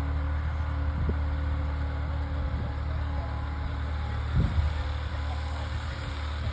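Tractor engine running steadily with a low, even hum, and a brief louder low burst about four and a half seconds in.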